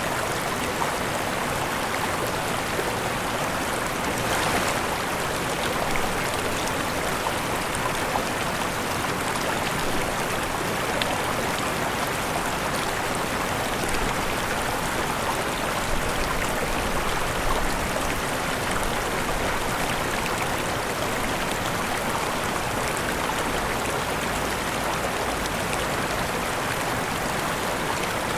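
Steady rushing of falling and flowing water, an even splashing hiss with no pauses.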